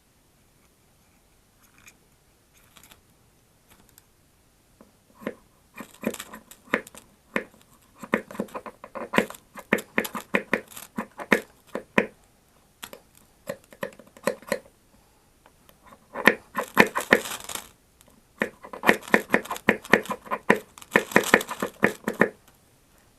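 Tinder and kindling being torn and broken by hand to light a fire: several bursts of rapid tearing and crackling, with a longer rasping stretch about two-thirds of the way through.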